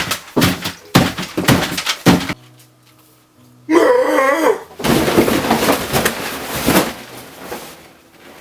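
Loud crashing and crunching noises in quick succession, with a brief warbling squeal about four seconds in, then more noisy clattering that fades out near the end, over faint background music.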